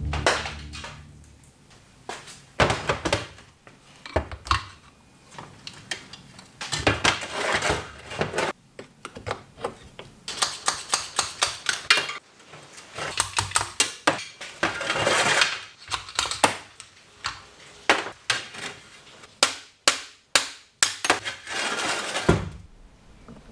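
Metal parts clinking, knocking and being tapped in irregular bursts, with many sharp strokes and short pauses between clusters: hands-on metalwork on the moped's parts.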